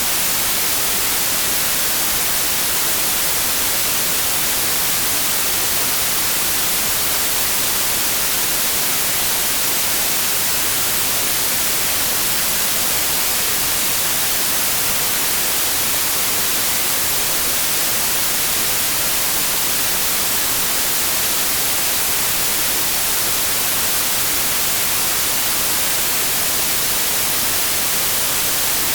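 Steady, unbroken white noise: an even hiss, brightest in the high frequencies, with no change in level.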